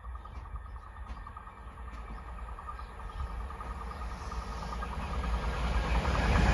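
Freight train approaching, a low rumble growing steadily louder as it nears.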